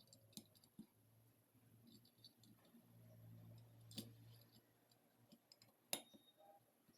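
Faint, scattered clicks and light taps of small metal engine parts and tools being handled during clutch work, with two sharper clicks about four and six seconds in.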